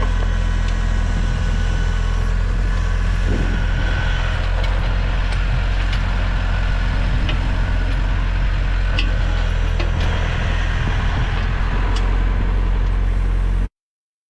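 Small Trident compact tractor's engine running steadily under backhoe hydraulic load while digging, with occasional light knocks. It cuts off suddenly near the end.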